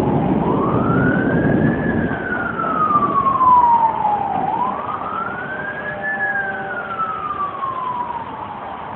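A siren wailing in two slow cycles: the pitch climbs quickly, then slides slowly back down. Under it is a steady hiss of heavy rain.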